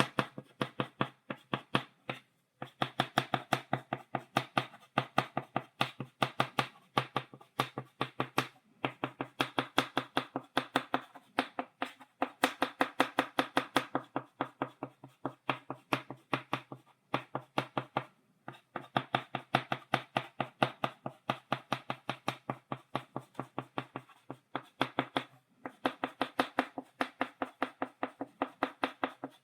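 Chalk tapping on a blackboard to make dots: rapid sharp taps, several a second, in runs of a few seconds with brief pauses between.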